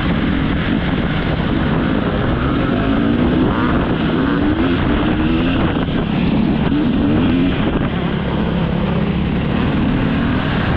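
Dirt bike engine revving up and down as it is ridden around a motocross track, its pitch rising and falling over and over, with wind buffeting the helmet camera's microphone.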